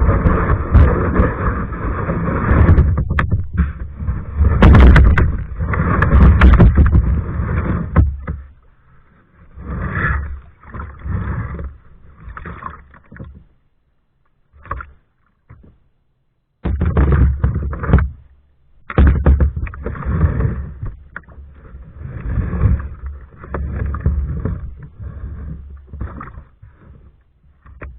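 Kayak being paddled on open water: paddle and hull water noise under a loud low rumble that comes and goes, with a brief drop to near silence about halfway through.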